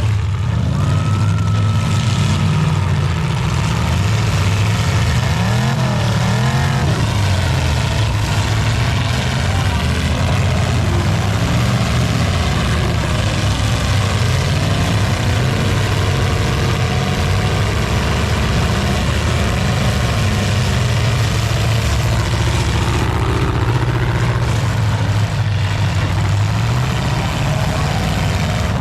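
Many full-size demolition derby cars' engines running hard at once, revving up and down as they accelerate around the arena.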